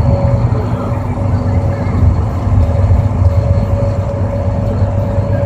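Car driving on a highway: steady low road and engine rumble, with a faint steady whine.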